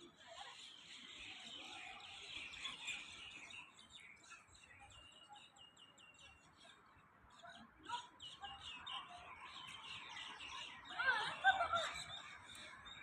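Wild rose-ringed parakeets (Indian ringnecks) calling: a dense, high-pitched chatter of many birds. Near the end come a few louder calls that slide up and down in pitch.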